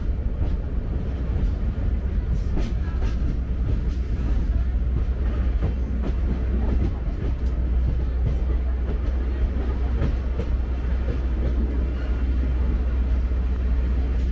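Sagano Romantic Train running on its line: a steady low rumble from the cars rolling on the rails, with scattered clicks and rattles.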